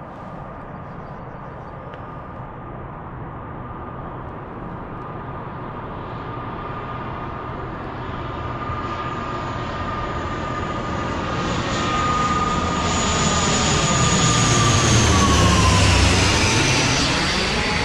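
Jet airliner passing low overhead: a steady engine whine and rumble grow louder, peak about sixteen seconds in, and the whine drops in pitch as the aircraft goes by.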